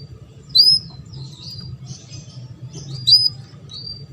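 Canary calling: two loud, sharp hooked chirps, about half a second and three seconds in, with softer chirps between, over a low steady hum.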